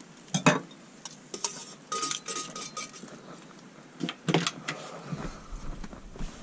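Metal cooking utensils clanking against a campfire grill plate: a few sharp knocks and scrapes, one with a brief metallic ring. Wind starts rumbling on the microphone about five seconds in.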